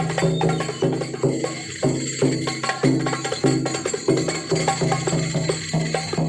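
Traditional Javanese percussion music of the kind that accompanies dancing horses in a procession. Tambourine jingles run over pitched drum or gong strokes that keep a steady, even beat.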